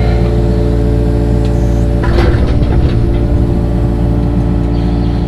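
An engine running steadily at a constant speed, with a stretch of clattering and knocking about two seconds in.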